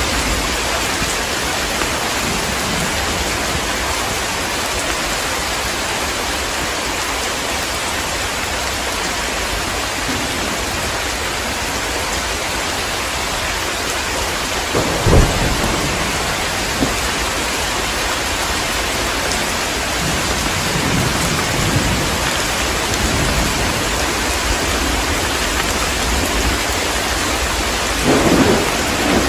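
Heavy rain falling steadily, with a sharp thunderclap about halfway through and lower rolls of thunder later, one more near the end.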